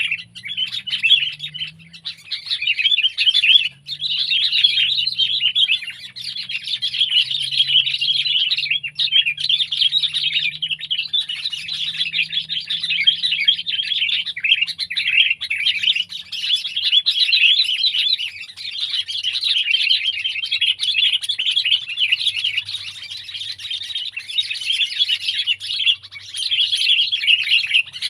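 Sooty-headed bulbul chattering: a dense run of rapid chirps with short pauses.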